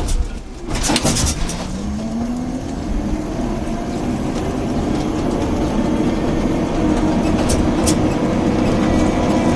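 A motor vehicle's engine running steadily with a low rumble, its pitch rising briefly about two seconds in, with a few sharp clicks.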